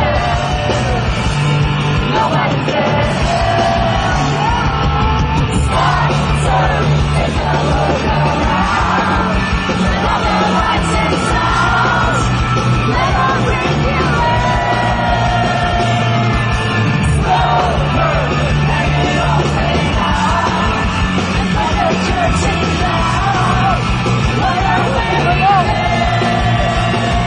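Live rock band playing loud and steady, with a singer's voice over distorted guitars, bass and drums, recorded from the crowd on a phone so that the sound is harsh and overdriven.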